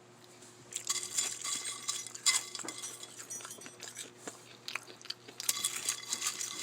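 Kale chips being eaten sloppily: irregular crunching and crackling bites and chewing, loudest in bursts about a second in, a little after two seconds, and again near the end.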